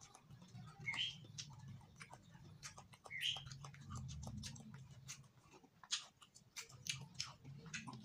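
A person eating rice with the hands and chewing with the mouth open: wet smacking and sharp mouth clicks at an irregular pace. Two short high chirps come about a second in and again near three seconds.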